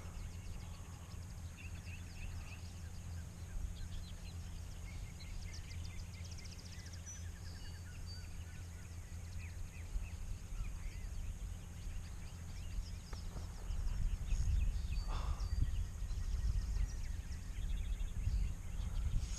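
Several songbirds chirping and trilling over a steady low rumble, which grows louder in the last few seconds.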